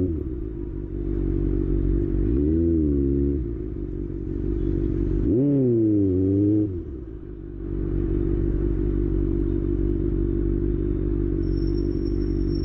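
Kawasaki ZX-6R inline-four engine idling, blipped twice on the throttle: a short rev about two seconds in and a higher one about halfway, each dropping back to a steady idle.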